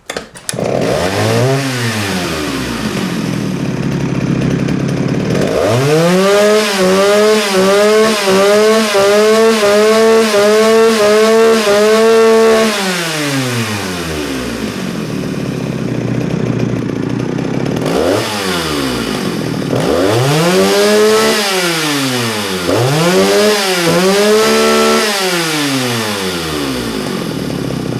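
Jonsereds 49SP two-stroke chainsaw running. It gives a quick rev and drops to idle, then is held at high revs for about seven seconds and drops back to idle. After that comes a series of short rev blips, each rising and falling, before it settles to idle again near the end.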